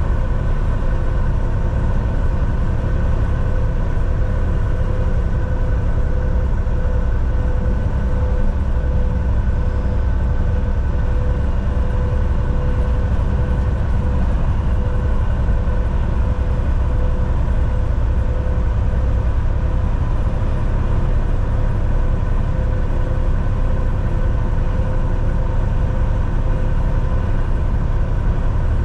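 Volvo VNL 760 semi-truck cruising steadily on the highway: a constant low diesel engine drone with a steady tyre and road hum and a faint whine.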